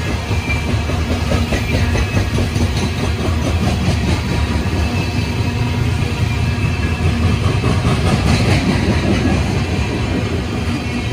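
Freight cars of a CSX coal train rolling past at steady speed: a continuous loud rumble with rapid clickety-clack from the wheels over the rail joints.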